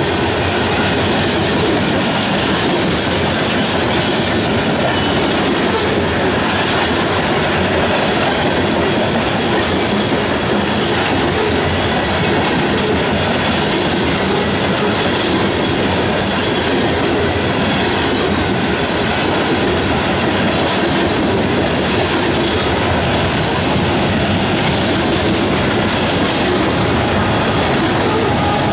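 Loaded covered hopper cars of a freight train rolling past close by: a steady, loud rumble of steel wheels on rail, with scattered clicks as the wheels cross rail joints.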